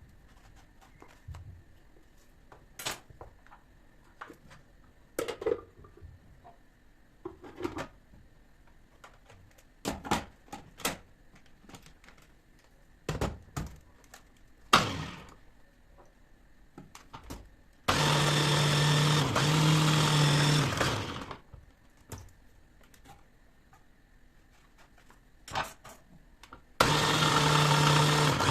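A small electric kitchen appliance motor runs in two bursts of about three seconds each, with a steady hum. Before the bursts come scattered light clicks and knocks of kitchen work.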